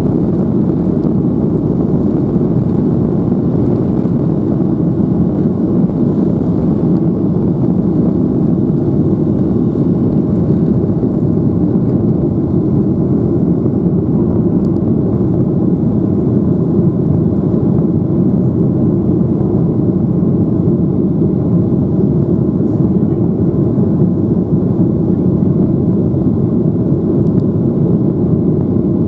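Boeing 737-800's CFM56 jet engines and airflow heard as a loud, steady rumble, unchanging throughout.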